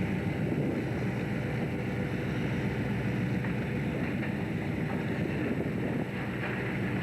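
An engine running steadily, a low even drone with wind noise over it.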